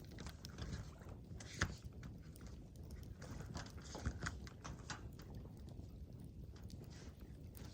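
Campfire wood crackling and popping in irregular snaps, with one sharper pop about a second and a half in, over a low steady rumble.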